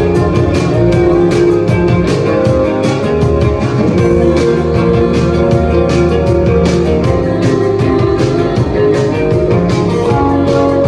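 A live rock band playing: guitars over a drum kit keeping a steady beat.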